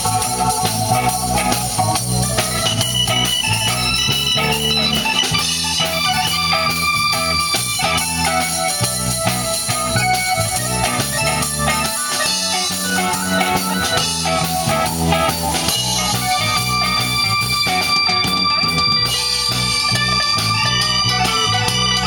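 Live blues band playing an instrumental break: guitar and organ over a steady bass line.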